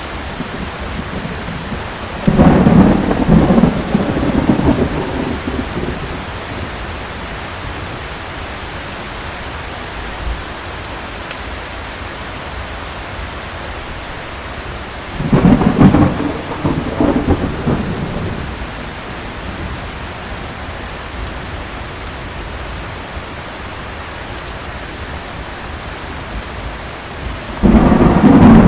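Heavy rain falling steadily, with thunder rumbling three times, each roll lasting a few seconds, about thirteen seconds apart.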